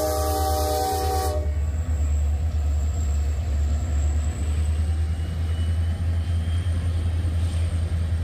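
A diesel freight locomotive's air horn sounds a chord of several notes and cuts off sharply about a second in. The low, steady rumble of the Wheeling & Lake Erie diesel locomotives passing close by follows, with the noise of the train rolling on the rails.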